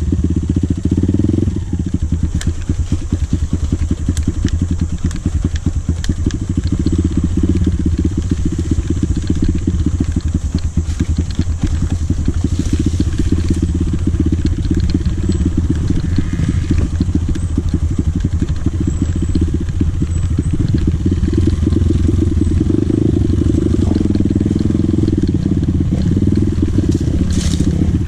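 Dirt bike engine running steadily at low revs under way, its rapid firing pulses loud throughout, with scattered small clicks and knocks.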